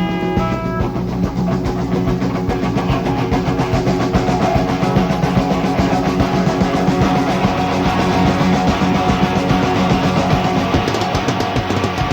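Four-piece rock band of two electric guitars, bass guitar and drums playing live without vocals at the close of a song. It is loud and dense with steady drumming, and some held notes break off under a second in.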